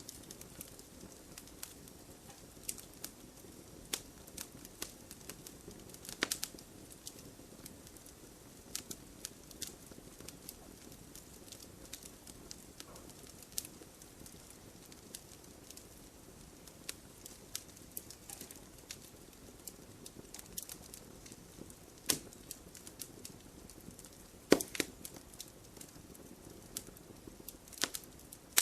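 Wood fire burning in an open fireplace: irregular crackles and sharp pops over a low steady hiss, with a few louder pops about six seconds in and again near the end.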